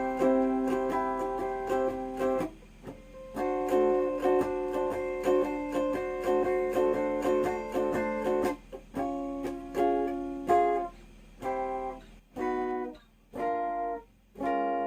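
Flight Centurion solid-body electric tenor ukulele played through an amplifier on a clean setting: chords strummed and left to ring, then a run of short, chopped chords with brief gaps between them, ending on a chord that rings on.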